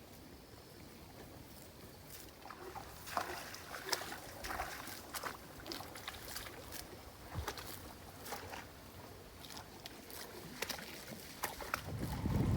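Faint, irregular splashing and sloshing of water, a scatter of short splashes and drips.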